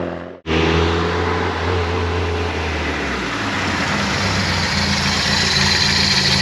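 A classic rally car's engine running steadily close by, its note shifting about three seconds in. The sound cuts out completely for a moment about half a second in.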